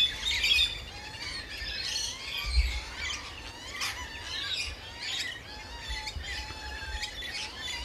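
Wild birds chirping and twittering, a busy run of short squeaky calls and sliding whistles throughout.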